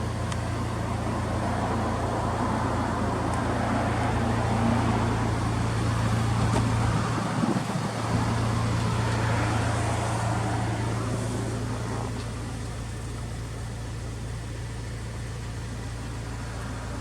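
Honda Civic Type R engine running through an aftermarket FEEL'S muffler, a steady exhaust note that grows louder through the middle and eases off about twelve seconds in.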